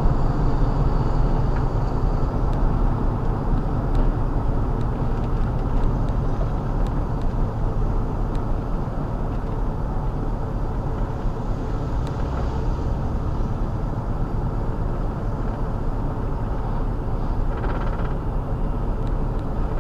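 Vehicle engine running steadily, a low continuous rumble.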